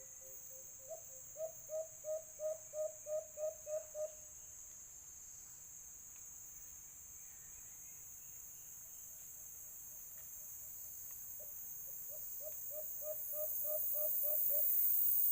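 White-eared brown dove calling: a run of about ten short hooting notes, roughly three a second, given twice, over a steady high trilling of insects.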